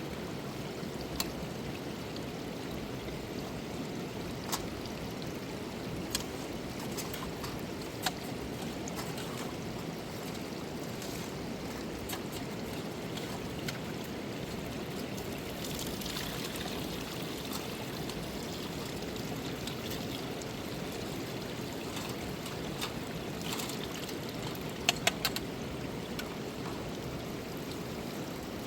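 Steady rush of a river's flowing water. A few sharp clicks or knocks are scattered through, with three in quick succession near the end.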